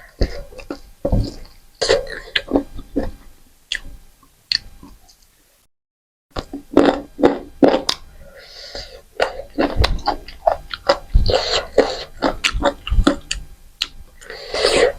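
Close-miked chewing and lip smacking while eating a meal of rice, dal and chicken, many short wet clicks and smacks. Cut by about half a second of dead silence a little before the middle.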